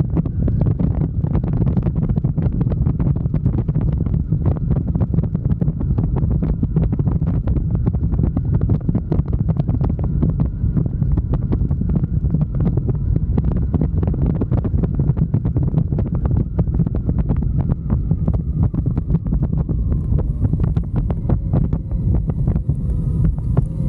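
Heavy wind buffeting on the microphone of a moving motorcycle: a loud, steady, dull rumble with constant crackling gusts, and the bike's running faintly underneath.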